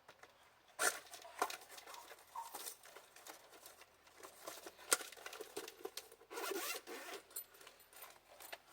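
Faint rustling and crinkling with scattered small clicks and knocks of objects being handled and packed by hand, a couple of louder clicks about a second in and near the middle.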